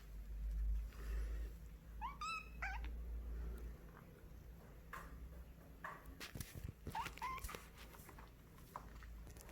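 A white kitten gives short, high-pitched meows that rise in pitch: two about two seconds in and more around seven seconds. The kitten is begging for a treat. Light clicks and rustles sound between the calls.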